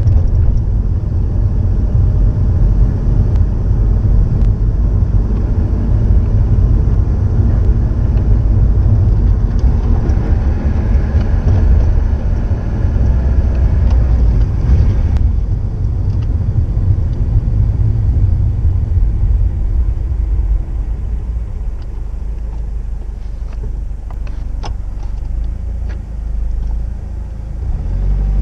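Turbocharged EJ20 flat-four of a Subaru Impreza WRX STI (GDB) running through an STI Genome muffler, a steady low rumble. It is loudest for the first fifteen seconds or so and eases off somewhat toward the end.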